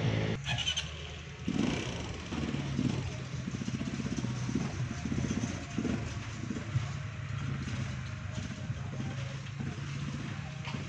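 Small motorcycle-type engine running steadily with an even, rapid pulse.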